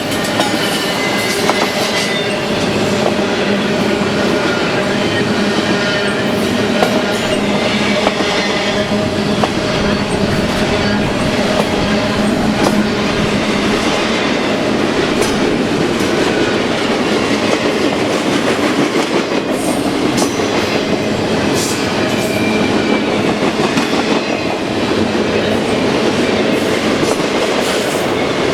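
Container cars of a BNSF stack train rolling past, wheels clattering steadily over the rail joints with frequent sharp clicks.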